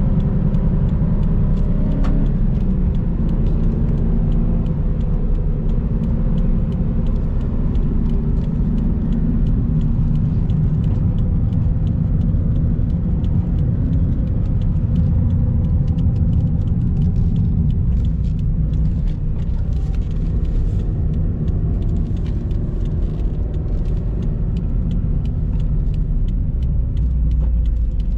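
A car driving with its engine running at a fairly steady pitch over low road and wind rumble; the engine note rises near the end.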